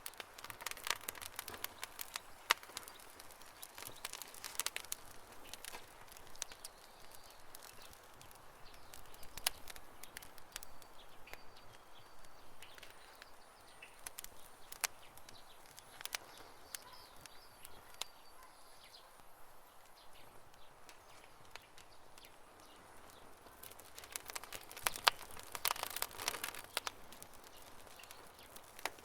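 Wood campfire crackling, with sharp pops in dense clusters near the start and near the end. Soft bird chirps can be heard in the background around the middle.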